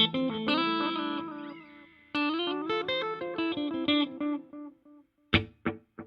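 Electric guitar played through a Donner digital delay pedal set to its vintage mode, with the reverb off: a run of single notes, then a short chord stab near the end whose echoes repeat about three times a second and fade away.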